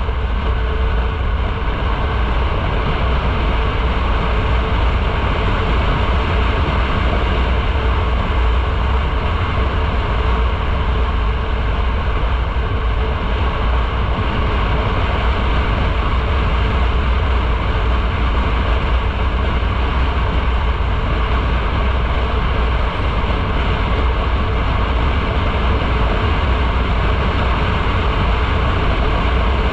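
Motorcycle riding at a steady speed: continuous wind rush buffeting the onboard microphone, with engine and road noise underneath.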